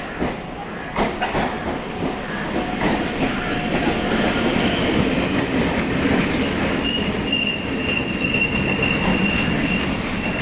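An EMU suburban electric train pulls into the platform, growing louder over the first few seconds and then running on loud. From about halfway in there is a high, steady squeal from the train.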